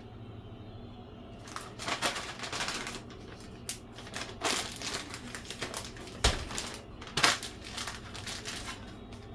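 Irregular rustling, crinkling and clicking of food packaging being handled while pizza toppings go on, starting about a second and a half in, with a dull thump just after six seconds.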